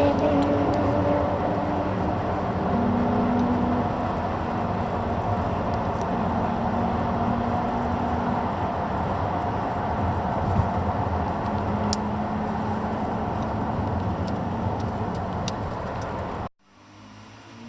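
Race car engines running hard, a loud steady engine note with held tones over a wash of noise. About 16 seconds in it cuts off abruptly to a quieter engine rising in pitch as it accelerates.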